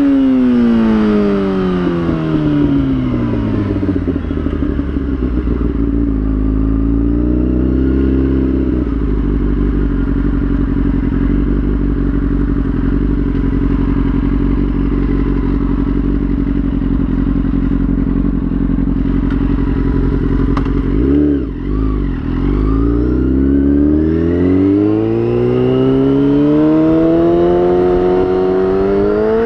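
Yamaha YZF-R6 inline-four engine winding down from high revs, with a quick throttle blip about a quarter of the way in. It then runs low and steady near idle for about ten seconds, dips briefly, and its revs climb steadily near the end.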